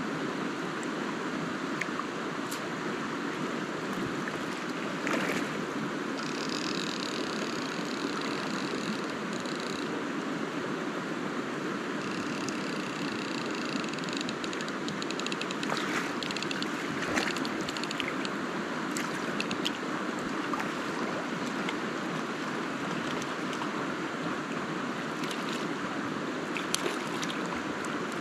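River water running steadily over a riffle, a constant rushing wash. Faint high tones come and go twice in the first half.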